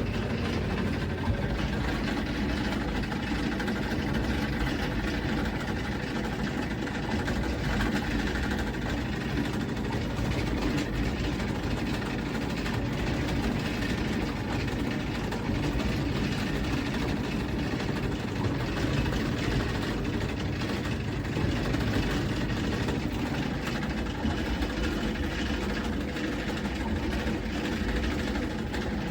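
Iris Ohyama IAW-T606-B top-loading washing machine running: a steady mechanical hum and rumble that cuts in suddenly at the start and holds evenly throughout.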